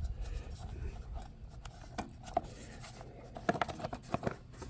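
Hands working wiring into a plastic battery box: scattered light clicks, ticks and rubbing, coming thicker in the second half, over low wind rumble on the microphone.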